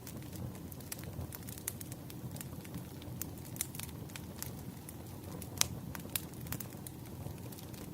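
Wood fire crackling: irregular sharp pops and snaps over a low, steady rumble, with one louder pop a little past the middle.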